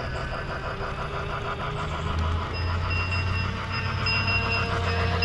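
Lionel toy electric train running around its track after the throttle is turned up, with a rhythmic, evenly repeating clatter. A low steady hum grows louder about halfway through, along with a faint high whine.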